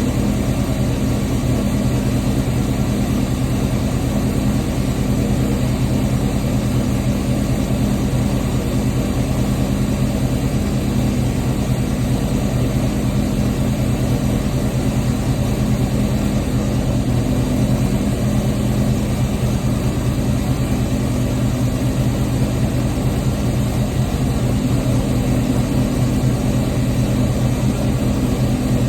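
6.0-litre LS V8 in a G-body Oldsmobile Cutlass idling steadily after a cold start, with an even, unchanging note.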